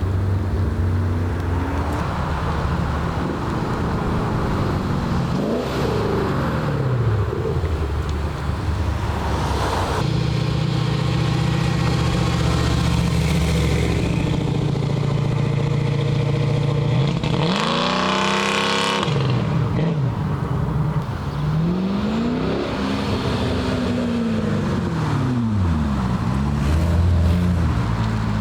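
Cars pulling out and driving past one after another, engines revving, the pitch of each rising and falling as it goes by. The loudest pass comes a little past halfway.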